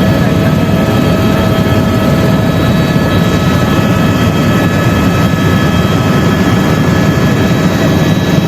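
Tour helicopter in flight: steady loud rotor and engine noise with a constant high whine from the turbine.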